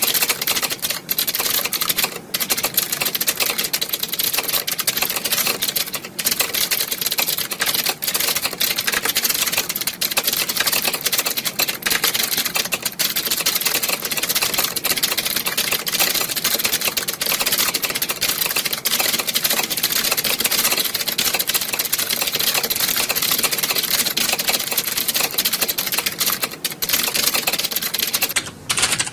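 Many computer keyboards being typed on at once, a dense, continuous clatter of overlapping key clicks, as in a hall full of people taking a typing test. The clatter drops briefly just before the end.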